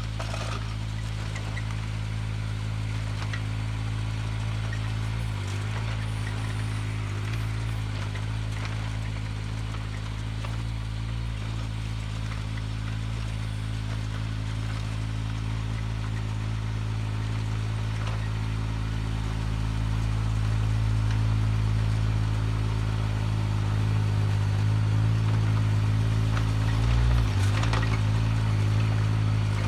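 Mini excavator engine running steadily. It dips briefly in pitch about five seconds in and again near the end, and runs a little louder in the second half.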